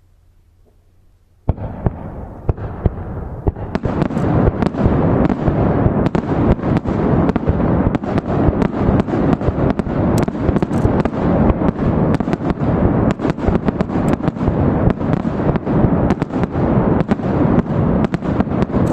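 Fireworks display. After a second and a half of quiet, shells begin bursting with sharp bangs, and from about four seconds in the bangs and crackle run together in a dense, continuous barrage.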